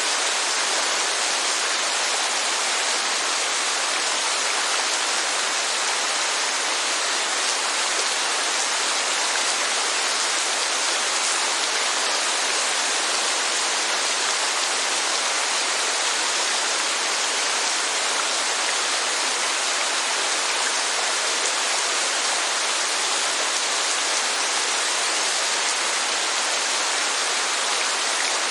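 Steady, unbroken rush of heavy rain and falling water, an even hiss with no single drops standing out.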